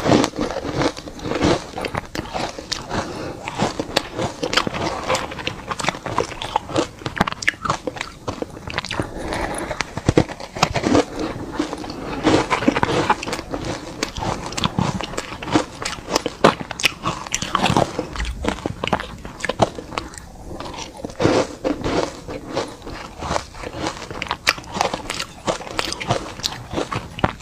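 A person biting and chewing hard chunks of ice dusted with matcha powder: a steady run of loud crunches and crackling snaps close to the microphone.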